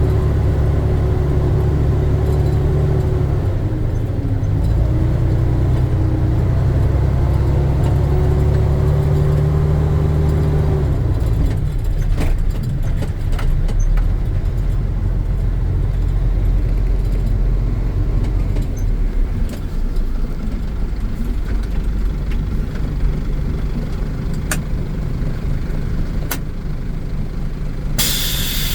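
Dump truck engine running under way, its pitch stepping up and down over the first ten seconds or so, then settling into a rougher rumble with scattered light rattles and clicks. Near the end comes a short sharp hiss.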